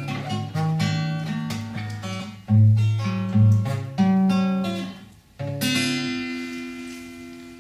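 Acoustic guitar playing the closing instrumental bars of a song, with picked notes and strums, ending on a final chord about five and a half seconds in that is left to ring and fade away.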